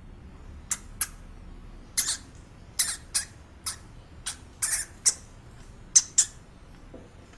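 A small animal making short, high-pitched squeaks, about a dozen at irregular intervals, some in quick pairs.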